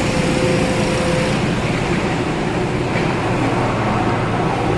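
Heavy track-work machinery running steadily. A steady hum fades out about a second in.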